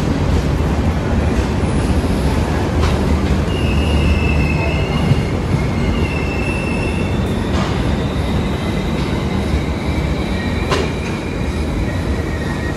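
Indian Railways passenger train running on the track: a steady, loud rumble with high wheel squeals that come and go, and a few sharp clanks.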